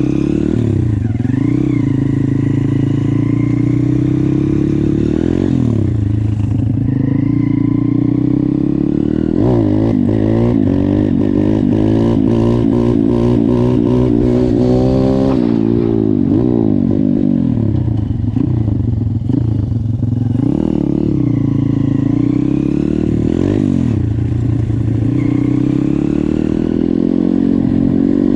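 YCF 150 pit bike's single-cylinder four-stroke engine being ridden, revving up and dropping back as the throttle opens and closes. About ten seconds in it pulls hard through a run of rising revs, then the throttle snaps shut at about fifteen seconds.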